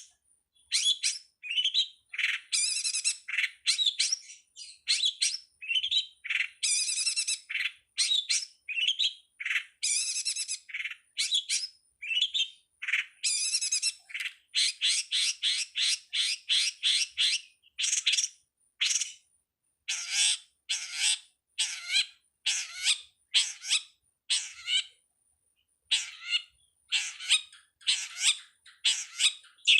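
Long-tailed shrike (pentet) singing: a rapid, varied string of short chirps and harsh squawks in quick bursts, with brief pauses between phrases.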